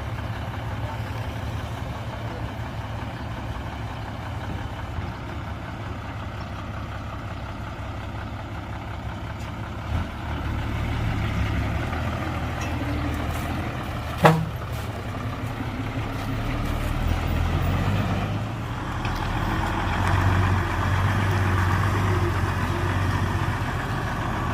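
Diesel engine of heavy earthmoving machinery running, working harder and louder in the second half. There is a sharp knock a little past halfway.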